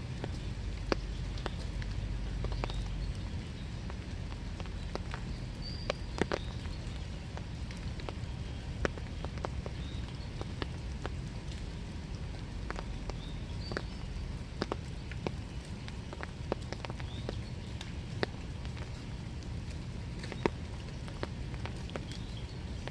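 Winter rain falling steadily, with individual drops striking close by as sharp ticks scattered through the hiss.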